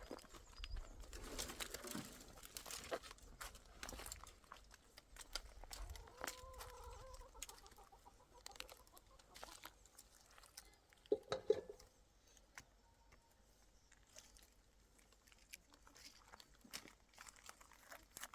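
Faint clucking of chickens among scattered light knocks and clicks, with a louder call about eleven seconds in.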